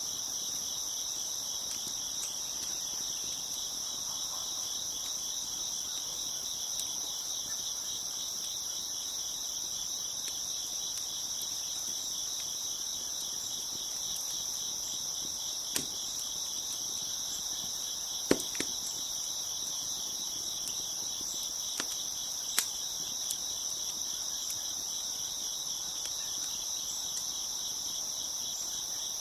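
A chorus of crickets chirping, steady and continuous. A crackling wood fire adds a few scattered sharp pops over it.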